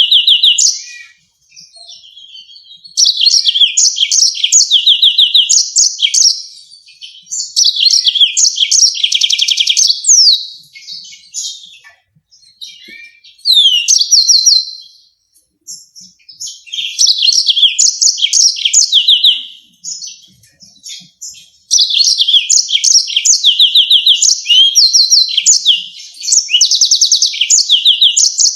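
Yellow-fronted canary singing: bouts of fast, high trills and rapid repeated sharp notes, broken by short pauses of a second or two.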